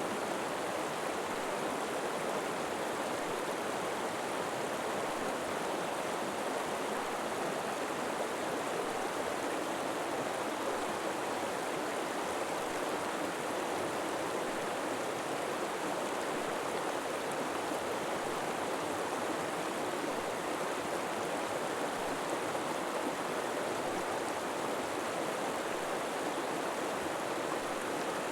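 River water flowing steadily over rocks in a continuous, even rush.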